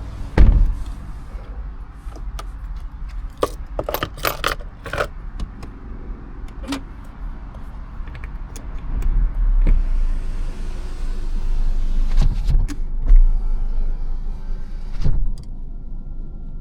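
Handling noises around a car: a cluster of sharp clicks and light rattles about four seconds in, with scattered single clicks, over a low rumble that grows louder and hissier in the second half.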